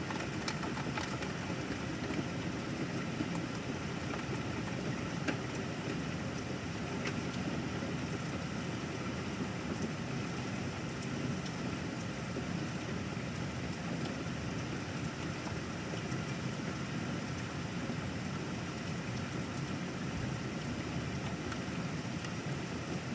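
Steady rain falling, with scattered sharp ticks of drops striking a surface.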